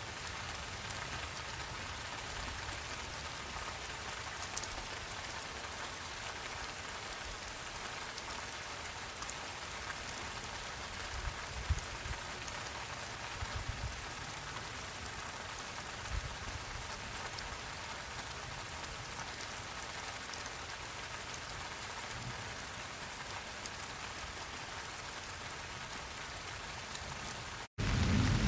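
Steady rain falling, an even hiss with a few soft low thumps along the way. Near the end the sound cuts out for a split second, then a much louder low rumble of thunder begins.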